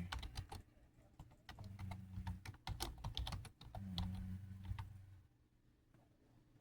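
Rapid, irregular clicking, like keys or buttons being pressed, over an intermittent low hum. The clicking stops about five seconds in.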